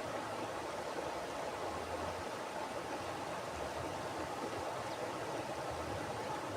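Mountain river flowing steadily over rocks: a continuous, even rush of water.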